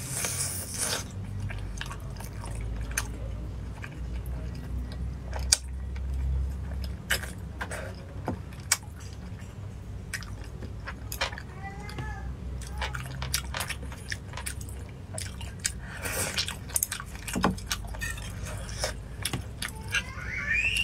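Close-miked wet chewing and lip-smacking of a person eating braised pig's trotter, with many short sharp mouth clicks throughout.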